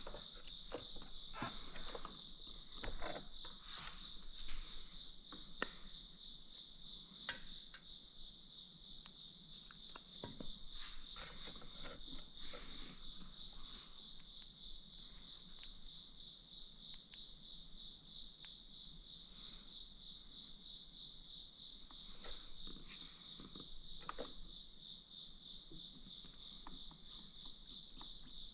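Crickets chirping in a steady, fast pulsing trill, with occasional light clicks and knocks from hand work on the machine.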